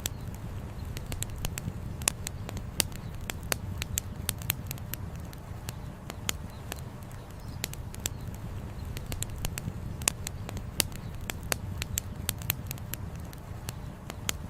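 Campfire burning with dense, irregular crackling and frequent sharp pops of firewood over a steady low rumble.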